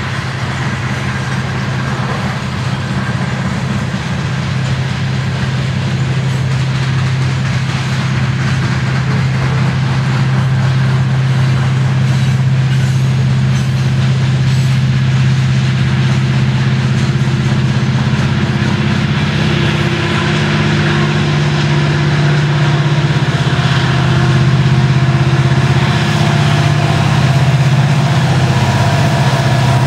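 Freight train passing: the diesel engines of a group of Montana Rail Link EMD SD70ACe locomotives, cut in among the coal hoppers, drone steadily over the rumble of steel wheels on the rails, growing louder as the locomotives draw alongside.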